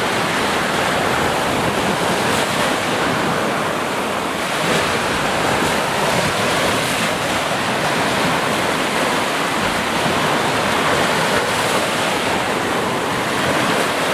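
Sea surf: a steady, even rush of waves with only slight rises and falls.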